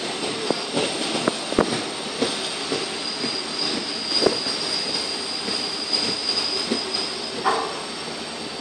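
Mandovi Express passenger train rolling slowly into the station, with a high steady squeal from the wheels and brakes and irregular clanks and knocks, heard from aboard the train. The train is slowing to stop.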